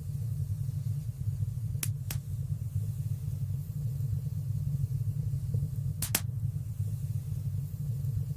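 Wood fire burning in a stone fireplace: a steady low rumble of flames with sharp crackling pops, two quick ones about two seconds in and two more about six seconds in.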